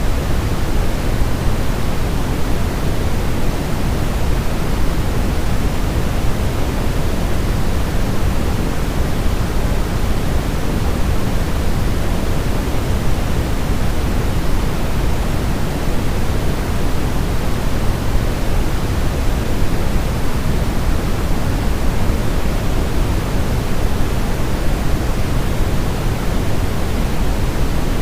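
Steady, unchanging sleep white noise: an even rushing hiss that is fuller in the low end than in the high.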